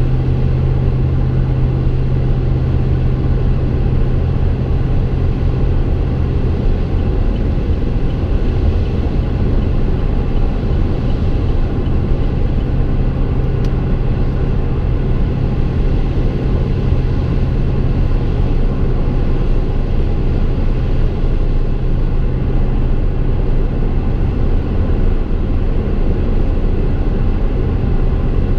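Exhaust of a 2015 Chevy Silverado's 5.3L V8 through Kooks long-tube headers and a Gibson MWA muffler with no resonator, heard inside the cab at a steady cruise: a constant low drone over road noise, with no change in revs.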